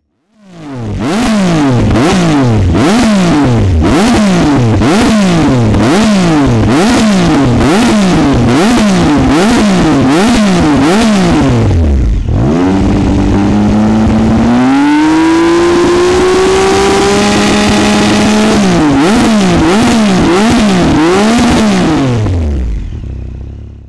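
2016 Triumph Speed Triple 1050 R's inline-three engine through a GPR dual exhaust, revved in quick repeated blips, about one a second. It is then held at steady revs, climbs to a higher held speed, and is blipped again before fading out near the end.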